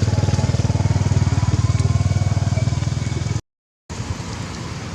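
A small motor vehicle engine running close by with a fast, even pulse. The sound cuts out abruptly about three and a half seconds in, then a fainter traffic-like hum follows.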